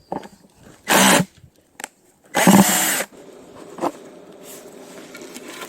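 Power drill driving screws: two short runs of the motor, the second one longer, with a few light knocks between them.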